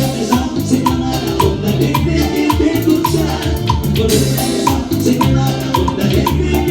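A live tropical band plays an upbeat Latin dance song on keyboards, bass, guitar, congas and drum kit. The song has a steady beat, with a bright tick repeating about twice a second.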